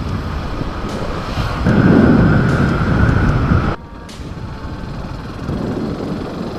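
Wind buffeting a helmet-mounted camera microphone while riding a Yamaha Fazer 250 motorcycle, with a dense low rumble of road and engine noise. The noise swells in the middle with a faint steady whine, then drops abruptly about four seconds in.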